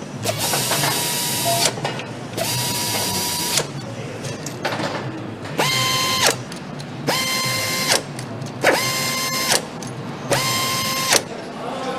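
Power tool run in six short bursts of about a second each, each spinning up to a steady whine and winding down again.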